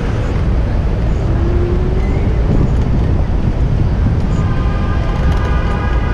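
Wind rushing over the microphone and street traffic noise while cycling, steady and heavy in the lows. About four seconds in, a steady pitched tone with several overtones joins it.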